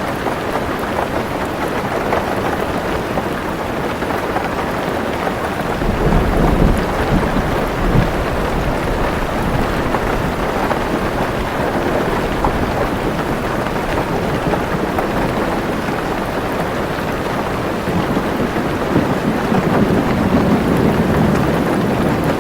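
Heavy rain falling steadily on a car roof, with a low roll of thunder rising about six seconds in, peaking in a sharper clap near eight seconds, and another rumble swelling near the end.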